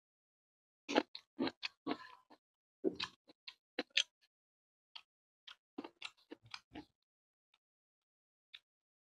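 Close-miked chewing of a mouthful of rice and fish curry: a run of short, wet smacking mouth sounds in two clusters, with silence between, and a couple of faint clicks near the end.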